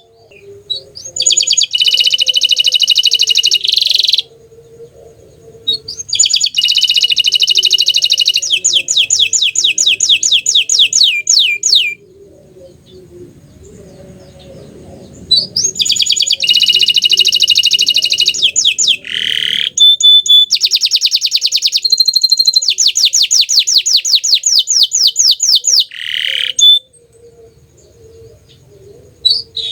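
Bottle-green domestic canary singing three long phrases of rapid, high trills, with pauses of a few seconds between them.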